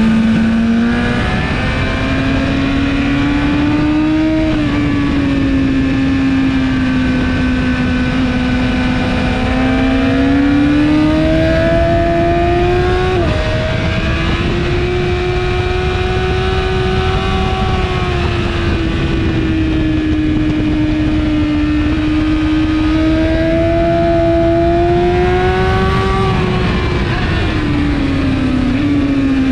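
2017 BMW S1000RR inline-four sport bike through an Akrapovic exhaust, revving hard at track pace: the engine note climbs steadily and then falls sharply at gear changes and braking several times, with a steady rushing noise underneath.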